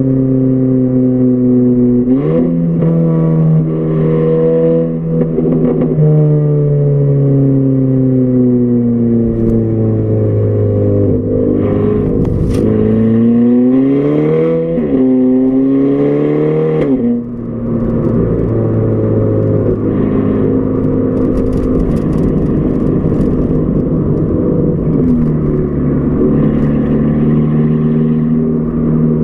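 Volkswagen Golf R Mk6's 2.0-litre turbocharged four-cylinder engine pulling on the road through a muffler-deleted exhaust. The engine note climbs several times under acceleration and drops sharply once at a gear change, then holds a steady drone while cruising. The drone comes from a poorly done muffler delete.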